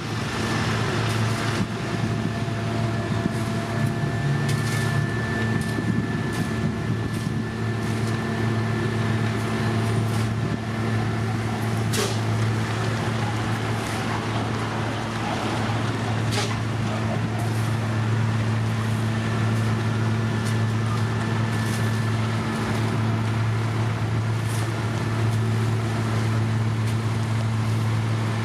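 Heavy diesel construction machinery running at a steady speed, a constant low engine hum, with a sharp click or knock twice near the middle.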